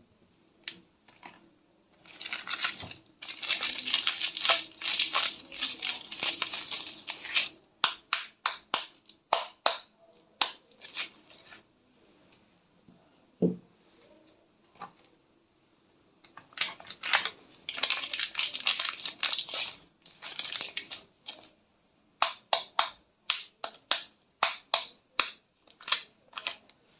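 Hard bar soaps being scratched and scraped, in long stretches of dense crackly scraping that alternate with runs of quick separate strokes. One soft low thump comes about halfway through.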